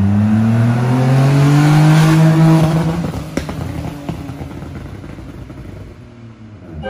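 Citroen C1, fitted with a cone air-filter induction kit, accelerating past with a throaty engine note. The note rises in pitch to its loudest about two seconds in, then fades as the car pulls away.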